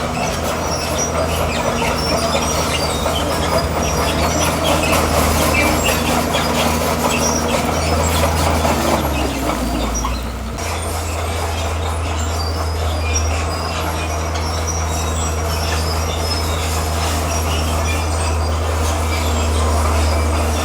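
Komatsu bulldozer working: its diesel engine runs steadily while the steel tracks squeal and clank over rock. The engine note falls and dips briefly about halfway through, then steadies again.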